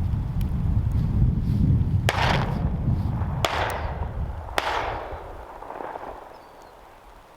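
Three shotgun shots fired at ducks in quick succession, about a second apart, each echoing away, over a low rumble of wind on the microphone.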